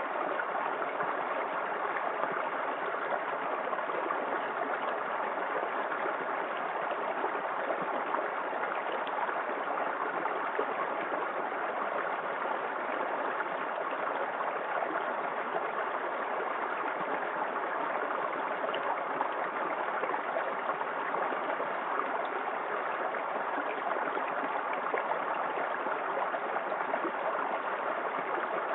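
Small waterfall in a forest creek: water falling and rushing over rocks, a steady even rush.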